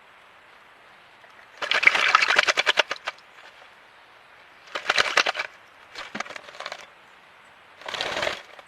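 Birds bathing in running water: four bursts of rapid crackling splashes and wing flutters, over a faint steady trickle of water.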